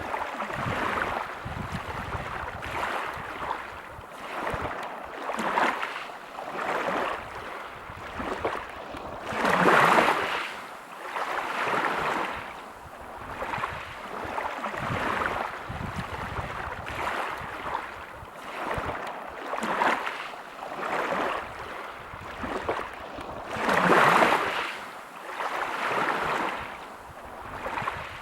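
Sea waves breaking and washing over a pebble beach, the surf swelling and fading every couple of seconds. Two larger waves break, one about ten seconds in and one near the end.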